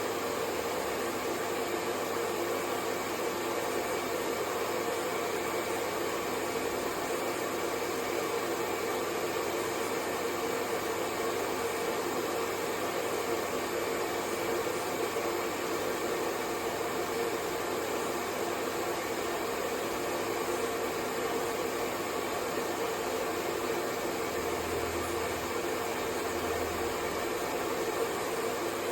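Hair dryer running steadily: an even rush of blown air with a low hum in it that never changes.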